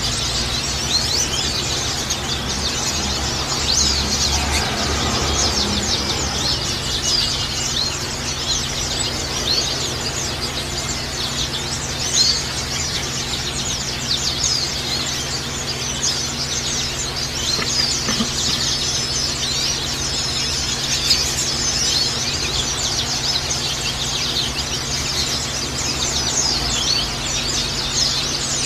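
A colony of white-eyes chirping together: a dense, unbroken chatter of many short, high calls overlapping, over a steady low hum.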